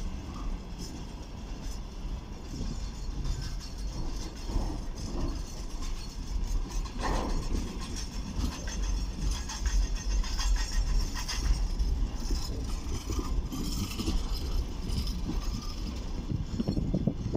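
Loaded container flat wagons of a freight train rolling slowly past, their wheels rumbling on the rails with scattered knocks.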